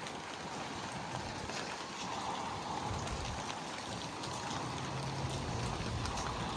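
Steady rain during a thunderstorm, an even hiss with no break.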